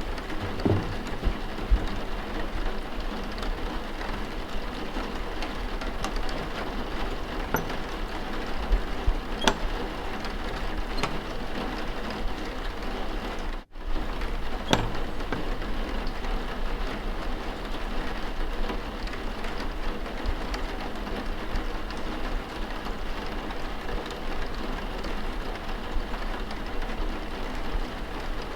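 Steady rain falling, an even hiss with a few faint clicks and knocks scattered through it. About halfway through, the sound cuts out for a split second and comes straight back.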